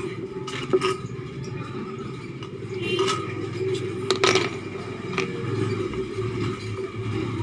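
Metal parts of an electric fan clinking and scraping as it is taken apart, with a few sharp knocks, over a steady low hum.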